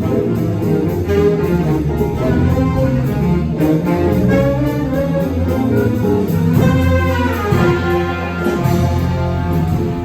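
A jazz big band playing full out: saxophones and trombones over piano and rhythm section, with a cymbal keeping a steady beat.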